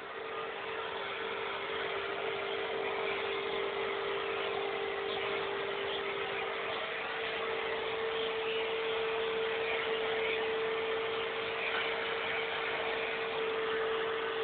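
Vacuum cleaner running steadily: a constant motor whine over the rush of air, getting a little louder in the first second or two.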